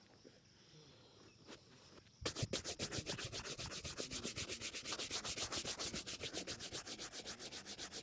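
A polished shoe being buffed with rapid back-and-forth rubbing strokes, about eight a second, starting about two seconds in.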